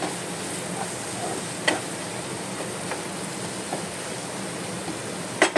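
Onion-and-spice masala frying in a non-stick wok as a spatula stirs it: a steady sizzle with soft scrapes and clicks, then a few sharp knocks of the spatula against the pan near the end.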